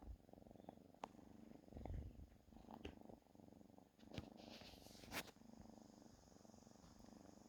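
Domestic cat purring steadily and softly, close up, with a few faint clicks and a brief rustle.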